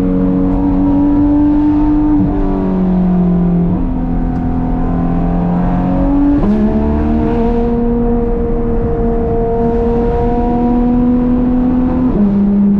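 Porsche 991.2 GT3 RS flat-six with Dundon street headers and a 'crack pipe' exhaust, driven through the gears. The engine note climbs slowly and drops sharply at upshifts about two seconds in, near four seconds and near the end, and jumps up at a downshift around six and a half seconds.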